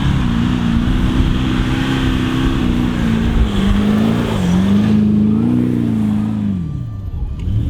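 Four-wheel-drive engine revving hard under load while driving through soft sand, its pitch rising and falling with the throttle, then dropping away near the end as the driver eases off.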